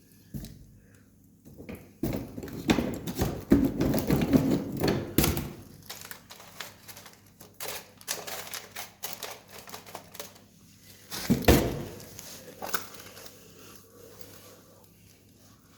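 Wood campfire crackling and popping, with irregular sharp snaps. The crackle is dense for a few seconds early on and there is a louder crack about eleven seconds in.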